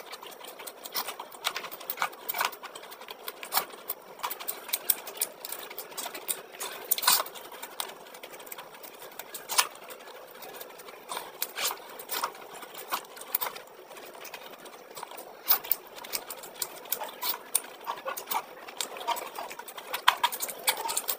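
Close-miked eating: wet chewing and lip-smacking with many irregular sharp mouth clicks, from mouthfuls of chicken curry and rice eaten by hand.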